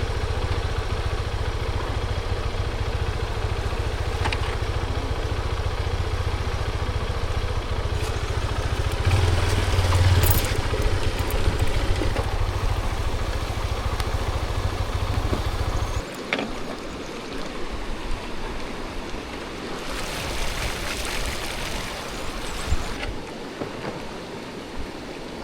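Honda XR150L motorcycle engine running steadily without revving, then cutting out about two-thirds of the way through. After that only the rush of the river remains.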